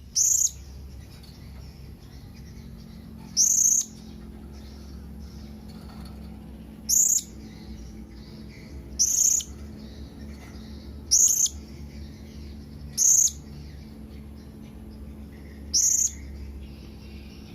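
Blue-crowned hanging parrot (serindit) giving short, high-pitched calls, seven in all at intervals of about two to three seconds: its call to flock mates, the kind used to lure other serindits.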